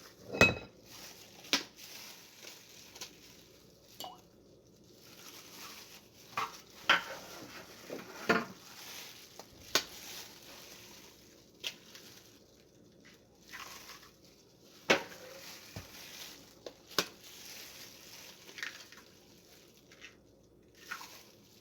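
Three eggs being cracked into a bowl: a dozen or so separate sharp taps and clinks of shell against the bowl, with quieter handling noise between them.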